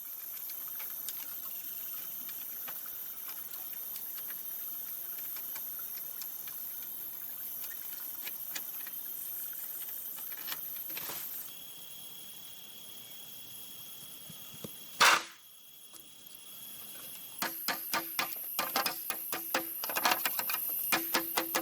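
Steady high-pitched insect drone with scattered faint clicks. One sharp knock comes about two-thirds of the way through, then a quick run of irregular tapping knocks near the end: hand tools working on bamboo.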